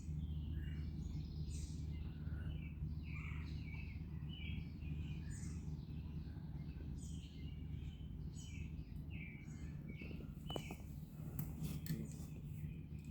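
Several small birds chirping and calling on and off over a steady low hum, with a few sharp clicks near the end.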